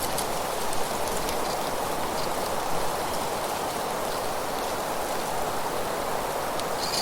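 Steady rushing and rustling of wind through leaves, an even noise with no pauses and a few faint high ticks.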